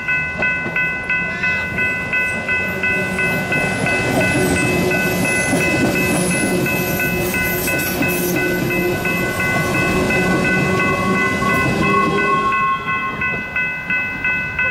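Railroad grade-crossing warning bell ringing about two and a half times a second while a CTA rapid-transit train rolls through the crossing, its wheels and motors rumbling loudest from about three seconds in until it has passed at about twelve seconds; the bell keeps ringing after the train has gone.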